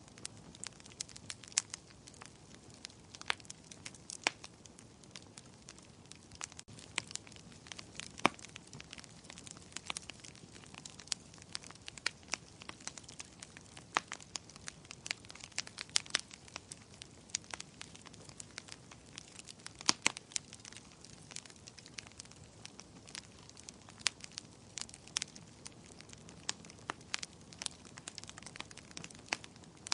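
Fire in a fireplace crackling, with irregular sharp pops and snaps over a faint low hiss; the strongest pops come about eight seconds in and again around twenty seconds.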